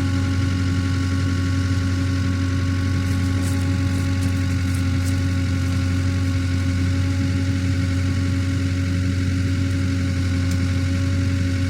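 Engine of a fork-equipped loader idling steadily at a constant low pitch, holding a log over the sawmill.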